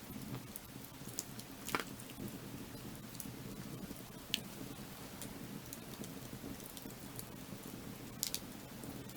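Firewood burning, crackling with scattered sharp pops over a low steady rush; three louder pops stand out, about two, four and eight seconds in.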